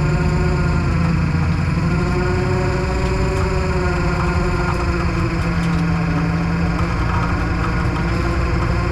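A tow truck's engine running steadily, its pitch wavering slightly.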